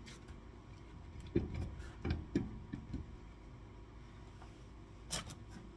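A few short knocks and clinks of metal parts being handled: a cluster about one and a half to three seconds in, then two sharper clicks near the end.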